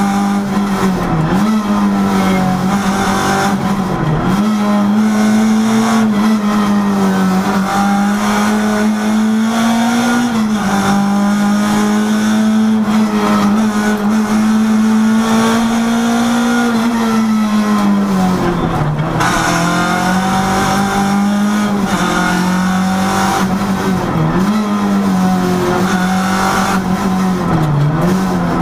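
Renault rally car's engine heard from inside the cockpit, held at high revs with short dips in pitch each time the driver lifts and changes gear, and a longer drop and climb back about two thirds of the way through.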